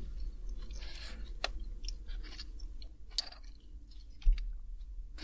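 Close-miked chewing of macadamia nuts, with scattered crunches and sharp clicks. A single low thump comes about four seconds in.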